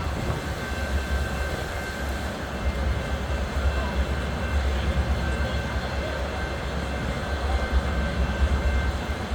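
Strong wind buffeting the microphone: a continuous low, gusting rumble with a rushing hiss over it.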